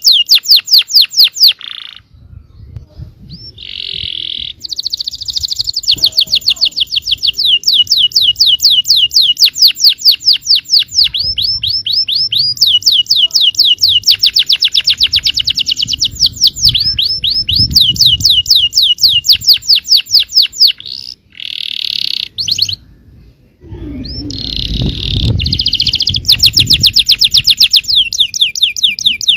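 Yellow domestic canary singing long, fast trilled rolls of rapidly repeated sweeping notes, several notes a second, broken by a few short pauses.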